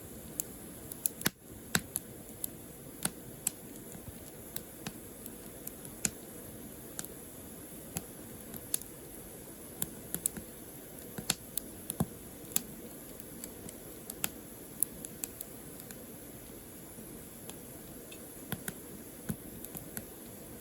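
Firewood burning, crackling with irregular sharp pops and snaps over a steady low hiss.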